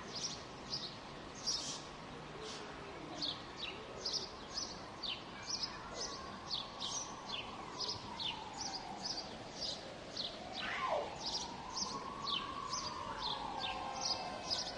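Small birds chirping rapidly and continuously, many short high chirps a second, over a steady background hum of city noise. From about halfway through, a faint wail slowly rises and falls in the background.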